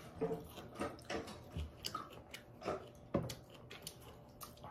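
Close-miked chewing and mouth sounds of someone eating chicken: a string of short, irregular wet clicks, smacks and small crunches.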